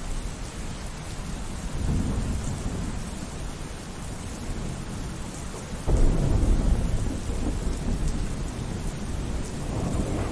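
Steady rain with rolling thunder. A low rumble swells about two seconds in, then a louder thunderclap breaks suddenly about six seconds in and rumbles on, fading slowly.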